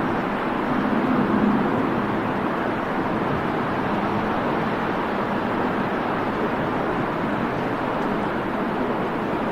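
Steady rushing noise of a jet airliner and wind, swelling briefly about a second in.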